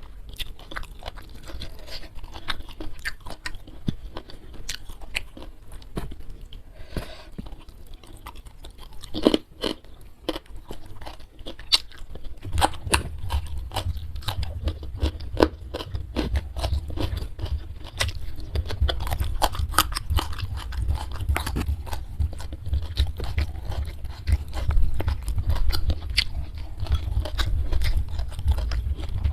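Close-miked chewing and crunching of food, with many sharp crunchy bites. About twelve seconds in, a steady low rumble joins.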